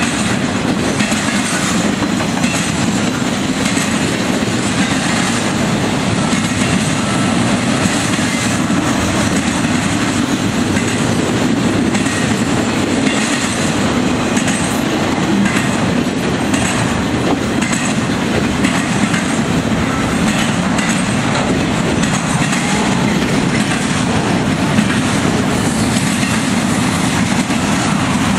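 Freight train cars rolling past at close range: a steady rumble with the rhythmic clickety-clack of steel wheels over rail joints.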